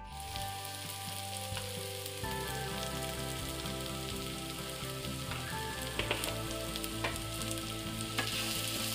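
Chopped onion and tomato sizzling as they fry in oil in a non-stick pan, with a wooden spatula stirring and scraping through them; a few light clicks of the spatula against the pan.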